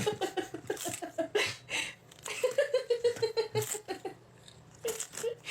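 A person laughing in two quick runs of short, rapid ha-ha pulses, one at the start and another a little over two seconds in.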